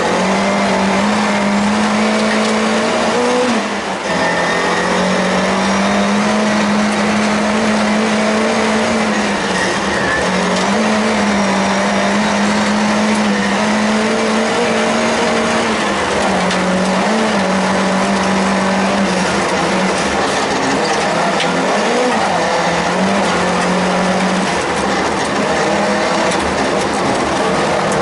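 Volvo 142S rally car's four-cylinder engine heard from inside the cabin, running hard at high, nearly steady revs, dipping briefly a few times, over constant tyre and road noise.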